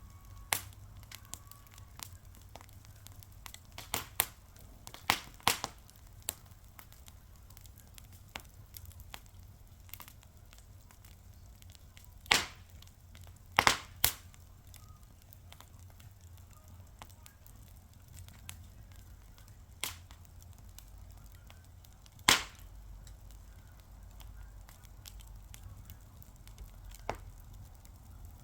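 Fire crackling: irregular sharp pops and snaps over a faint steady low rumble, with a cluster of the loudest pops near the middle and another loud one later.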